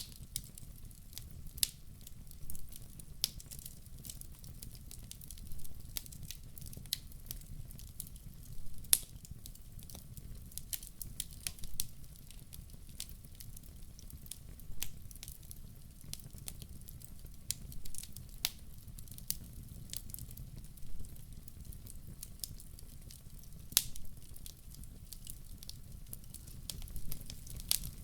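Wood fire crackling, with irregular sharp pops and snaps, a few much louder than the rest, over a low steady rumble of the burning.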